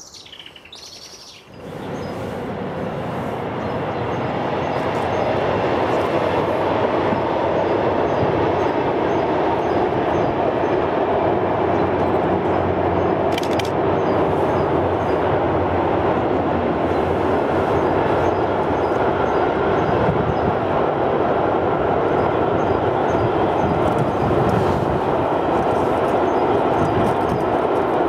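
A few bird chirps, then a long freight train of loaded car-carrier wagons crossing a stone arched viaduct. The rolling noise of the train rises over the first few seconds and then runs steadily.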